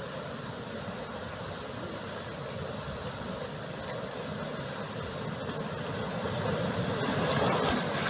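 Ocean surf washing against a rocky shore, a steady rush that swells louder near the end as a bigger wave comes in.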